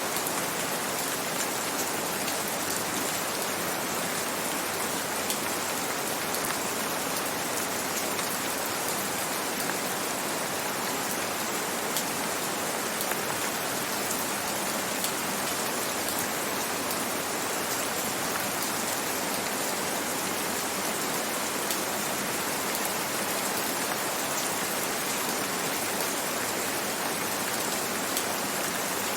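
Steady rainfall with scattered individual drops landing on a surface.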